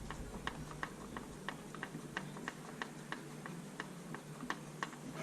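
Ratchet wrench clicking in light, even ticks, about three a second, as the bolt of a new serpentine belt tensioner is run in.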